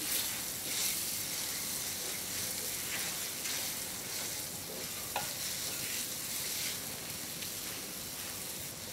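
Coarse-ground chana dal paste sizzling in hot oil tempering in a frying pan, stirred with a silicone spatula. A steady sizzle runs throughout, with a swish at each stroke of the spatula about once a second.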